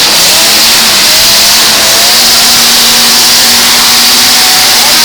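Full-size demolition-derby cars' engines running and revving together, loud and steady, with one engine's pitch rising in the first couple of seconds.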